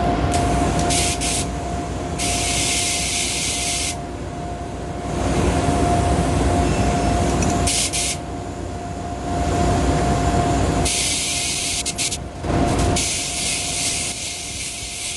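Spray gun hissing in several separate bursts, the longest about two seconds, as the trigger is pulled and released to lay a coat of automotive primer. A steady low rumble and a constant hum run underneath.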